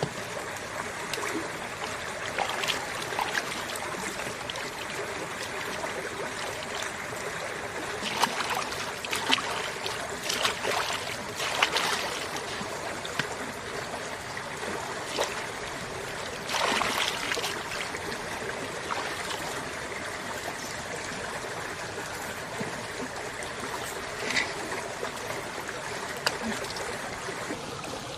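Stream water running steadily, with a few brief louder splashes or knocks in the middle.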